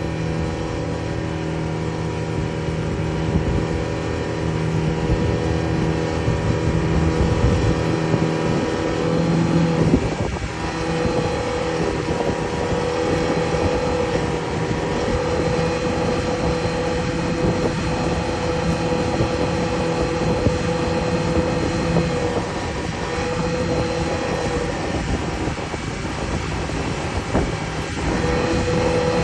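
An engine running steadily, a hum with noise around it; its tone shifts abruptly about ten seconds in.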